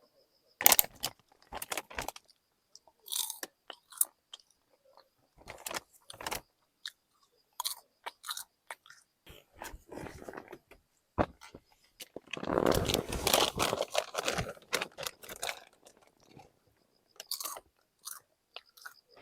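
Crunchy food being bitten and chewed close to the microphone: scattered crisp bites, then a longer run of dense crunching in the middle.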